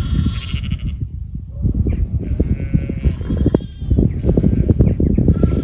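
Sheep bleating, ewes with young lambs, about three separate calls over a heavy low rumble.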